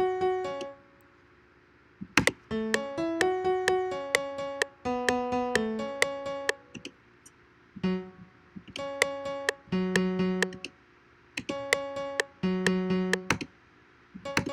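Software piano-type instrument playing short melody phrases of quick, plucky notes, stopping and starting with pauses of about a second: a house melody being tried out and replayed while it is written.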